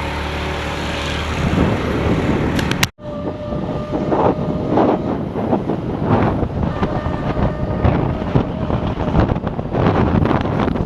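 A vehicle driving along with its engine running steadily. After a sudden cut, wind buffets the microphone in irregular gusts over the road noise.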